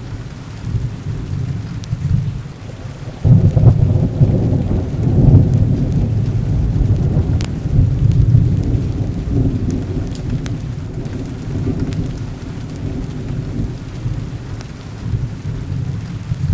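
Thunderstorm: heavy rain over deep rolling thunder, which breaks in sharply about three seconds in and keeps rumbling, swelling and easing.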